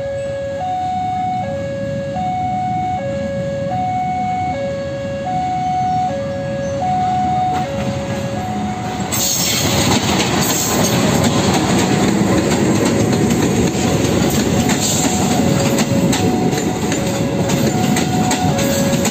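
Level-crossing warning alarm sounding a steady two-tone high-low signal, each tone lasting well under a second, as a train approaches. About nine seconds in, a KAI CC206 diesel-electric locomotive and its passenger coaches pass close by, and the loud rumble of wheels on the rails all but drowns the alarm.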